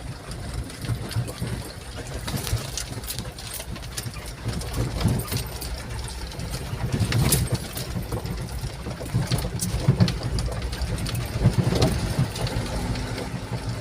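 Dump truck engine running with a steady low rumble, with frequent short clicks and rattles over it.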